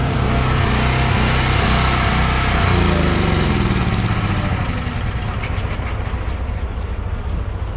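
Diesel engine running, its speed dropping about three seconds in and settling to a lower, steady idle.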